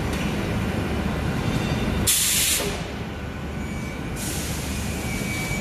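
Hot spring coiling machinery running with a steady low hum, broken about two seconds in by a loud hiss lasting about half a second.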